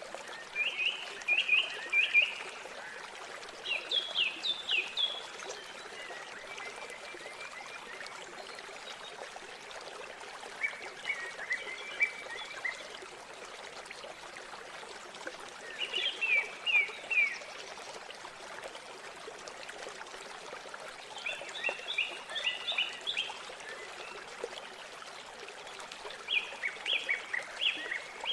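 Steady rush of river water, with a songbird singing short phrases of three to five quick falling notes, repeated every few seconds.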